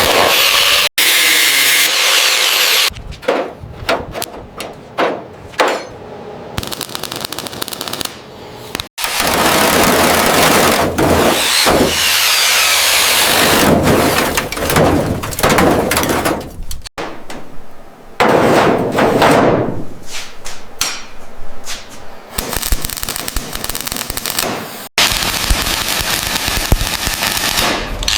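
Workshop tool noise: stretches of loud rushing, grinding-like noise alternating with sharp clanks and knocks. The sound changes abruptly about every eight seconds.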